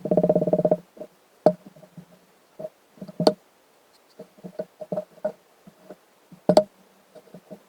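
Irregular knocks and taps on a hard, resonant object, opening with a short rapid rattle and followed by scattered single knocks, a few of them sharper.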